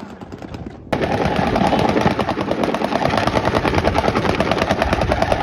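A performance car's engine revved hard, its exhaust popping and crackling in a rapid machine-gun stutter. It starts about a second in and cuts off near the end.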